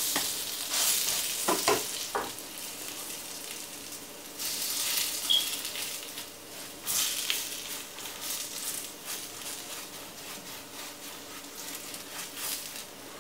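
Caribbean roti sizzling steadily in a non-stick frying pan on medium heat, with the soft swish of a pastry brush spreading butter and oil over its top.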